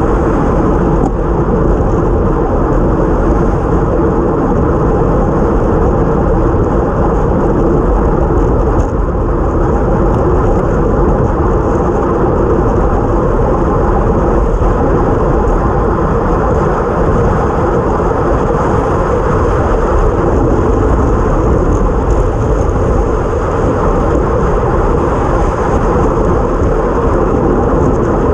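Steady, loud wind rush buffeting a bike-mounted action camera at race speed, mixed with tyre noise on a wet road.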